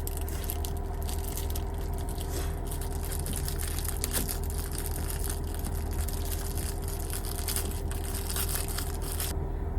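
Plastic food packaging crinkling and tearing as it is handled and opened, in rapid irregular crackles that stop shortly before the end. A steady low hum runs underneath.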